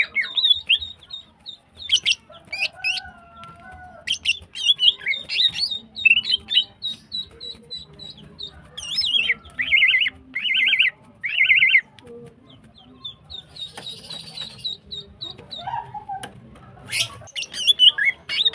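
Female cucak ijo (green leafbird) calling in bursts of fast chattering notes and short trills, with three strong trills about nine to twelve seconds in. This is a female in breeding condition calling for a male.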